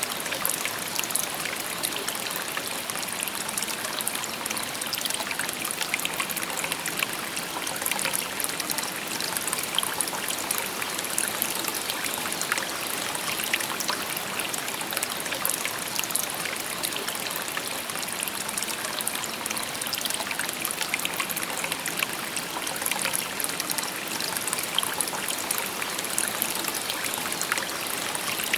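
A shallow stream babbling steadily over stones, a continuous bright splashing and trickling with many small droplet ticks.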